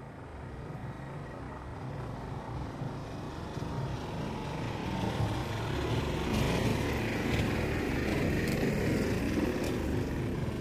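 Electric suburban local train (EMU) approaching along the track, its rumble growing steadily louder, with a few faint sharp clicks in the second half.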